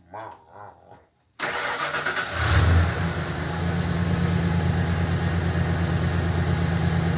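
Ford F-250 pickup engine cranked by the starter, catching after about a second with a brief rev, then settling into a steady idle.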